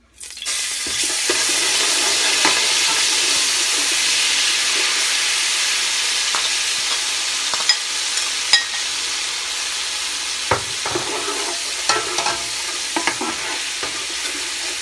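Ginger-garlic paste and crushed green chillies sizzling in hot oil. The sizzle bursts in as they go in and then runs steadily. A perforated metal spoon stirs them, with a few sharp clinks against the metal pot in the second half.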